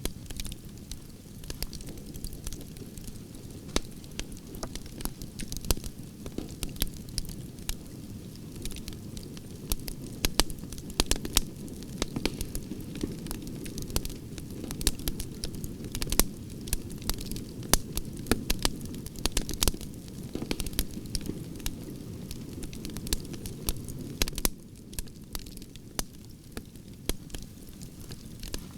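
Wood fire of burning branches, crackling and popping with many sharp snaps over a steady low rush of flame. The pops come thickest in the middle and thin out a little near the end.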